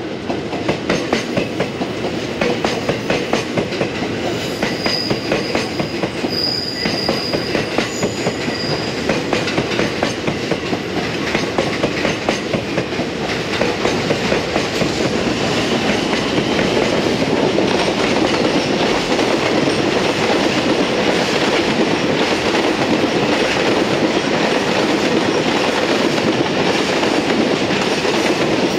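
Trains passing close by, a passenger electric train and a container freight train hauled by an EF210 electric locomotive, their wheels clacking rhythmically over the rail joints. Past the middle the clacking merges into a louder, steadier rumble as the long line of container wagons rolls past.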